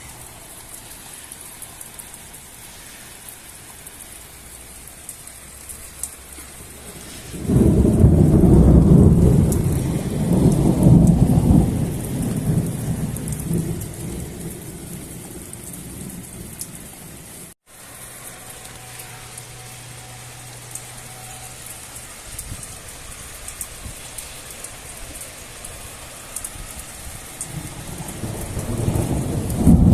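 Heavy rain falling steadily, with a loud rolling rumble of thunder starting about seven seconds in and lasting several seconds, and another thunder rumble building near the end.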